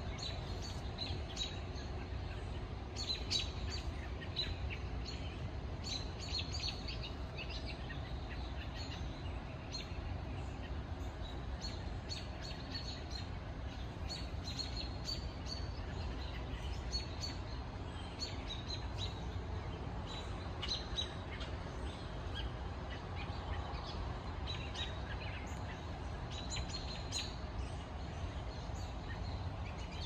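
Birds giving short, high chirping calls, scattered irregularly throughout, over a steady low background noise.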